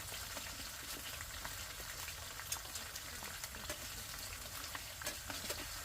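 Potato chips frying in hot oil: a steady sizzle with many small scattered crackles.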